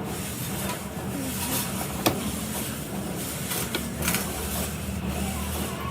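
A machine tool running steadily on metal with a constant low hum and a rough, noisy scraping. There is one sharp click about two seconds in.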